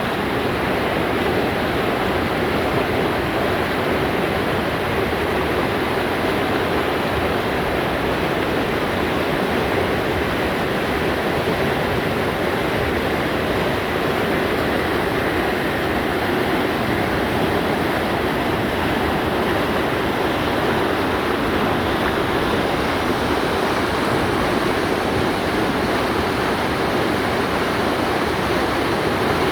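Mountain stream rushing, a steady, unbroken sound of fast-flowing water.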